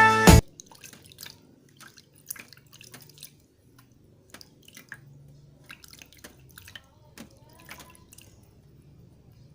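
Scattered drips and small splashes of tap water in a small container, with light, irregular ticks.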